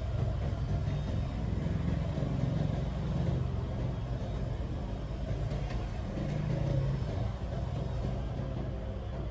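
A low, steady mechanical rumble that wavers slightly in level, like a small engine running.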